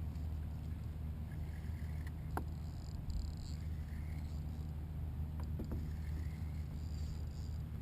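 Ambience aboard a fishing kayak on the water: a steady low rumble, with one sharp click about two and a half seconds in and a couple of faint knocks a few seconds later.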